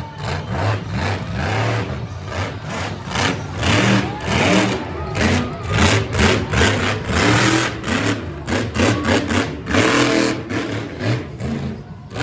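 Extreme King Sling's engine revving in many short, loud bursts over its running note.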